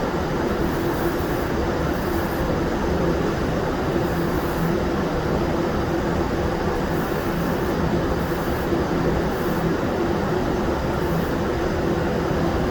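Steady air rush and machine hum of powder-coating equipment running without a break, with a constant low drone under it.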